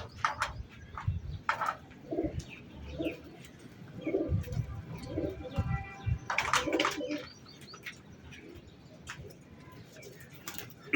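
Domestic pigeons cooing, a run of low coos, mixed with several sharp knocks and rustles.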